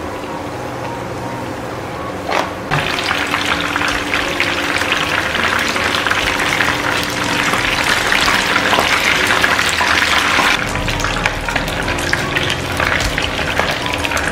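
Battered chicken pieces frying in hot oil in a nonstick pan: a dense crackling sizzle that grows much louder about three seconds in and eases slightly near the end.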